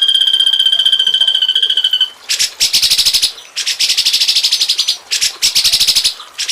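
High, rapidly pulsed animal trill held on one pitch for about two seconds, then three harsh, buzzy pulsed bursts with short breaks between them.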